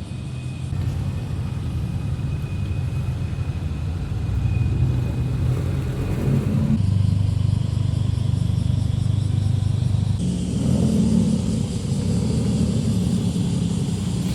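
Exhausts of modified cars rumbling as they drive slowly past one after another, with a louder one about seven seconds in.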